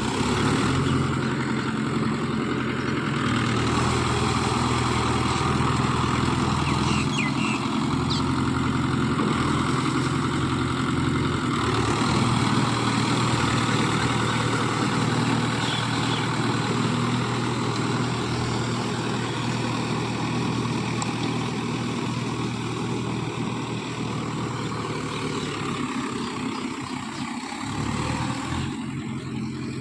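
Mahindra Yuvo Tech+ 575 DI tractor's diesel engine running steadily, dipping slightly in level near the end.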